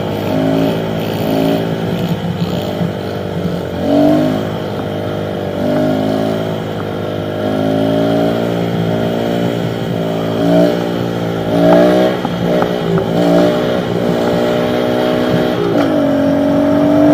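Small pit bike engines running on the move, their revs rising and falling again and again, with a long climb in pitch near the end.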